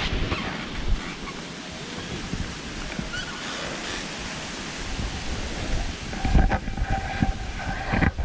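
Wind gusting on the microphone and rustling through the tree's leaves, with a few short knocks near the end.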